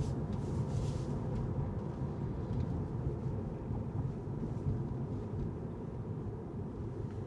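Steady low rumble of a car being driven: tyre and engine noise, with a brief faint hiss about a second in.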